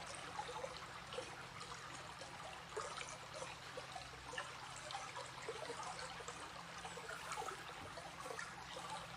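Recorded stream soundscape: water trickling and babbling steadily, with small splashes flecking the flow, and a faint low steady hum underneath.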